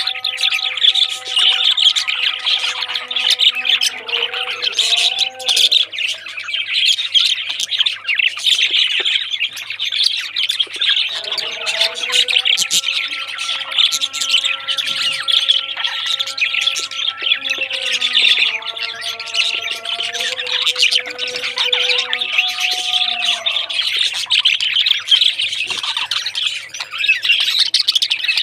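A flock of parrots chirping and squawking continuously in a dense chatter. Soft, held music chords play underneath at the start and again through the middle.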